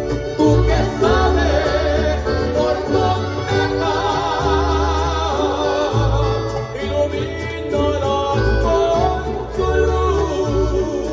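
Mariachi music: a male voice holds a long note with a wide vibrato over steady bass notes and strummed strings.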